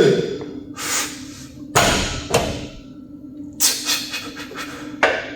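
A lifter's forceful breaths and knocks of gym equipment during a set: about five short, sharp bursts over a steady low hum.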